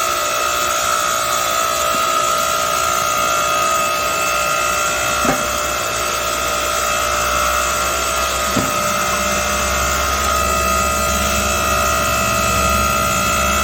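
8-ton hydraulic log splitter running, its motor and pump giving a steady whine. There is a short knock about five seconds in and another a little after eight seconds, after which a deeper hum joins the whine.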